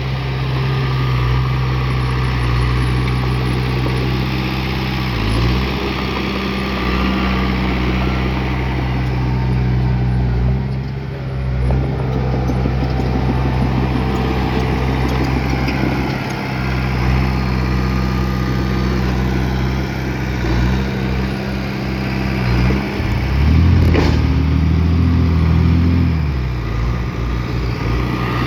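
Bulldozer's heavy diesel engine running steadily as it works, its pitch shifting a few times and rising briefly near the end, with one sharp knock near the end.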